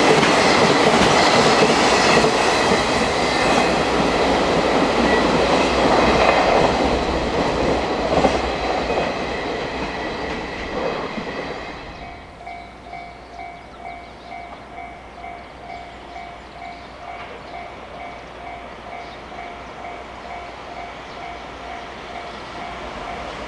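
Freight train wagons passing at speed, rumbling and clattering over the rail joints, then fading away about halfway through. After that a quieter electronic warning tone pulses steadily a little over once a second, and the next train's noise begins to build near the end.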